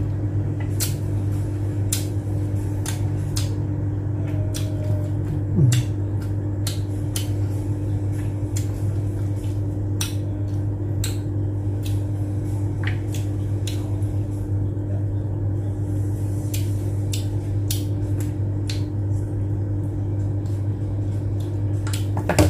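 A person chewing a mouthful of grilled chicken and rice, with scattered sharp mouth clicks about one or two a second, over a steady low hum.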